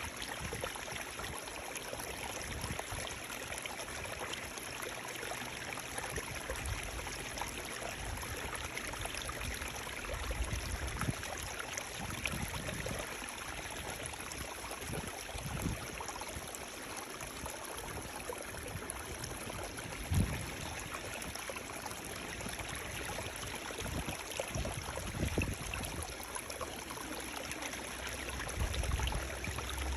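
Running water flowing steadily with a continuous, even rush, broken by a few brief low thumps.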